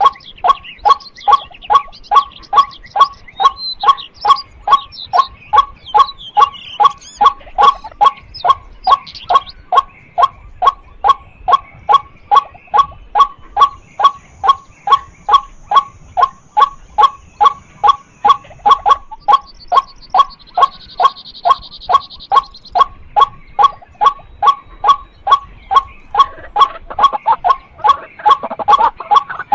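White-breasted waterhen calling a loud, monotonous 'kwak' note over and over, about twice a second.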